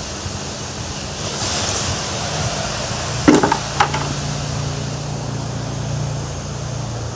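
Foundry furnace burner running with a steady rush and a low hum, with a brief hiss about a second in and a few sharp metallic clanks a little past three seconds in.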